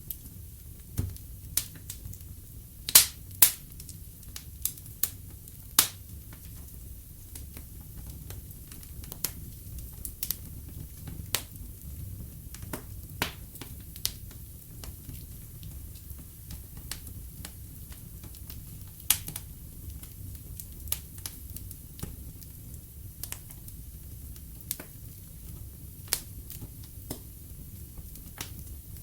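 Wood fire in a fireplace crackling: irregular sharp pops and snaps of burning logs over a low steady rumble of flames, with a pair of louder pops about three seconds in.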